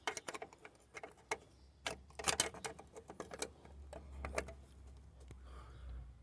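Light metallic clicks and taps of a small steel patch panel being set into its cut-out on car bodywork. A low steady hum comes in about halfway through.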